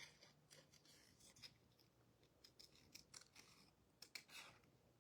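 Faint, scattered scrapes and clicks of paper and cardstock being handled, a few soft rustles clustered about halfway through and near the end.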